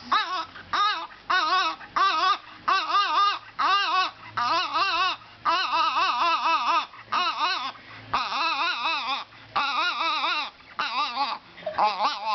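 Shih Tzu dog vocalizing in a long run of short, wavering, whine-like calls with brief gaps between them, the pitch wobbling up and down within each call.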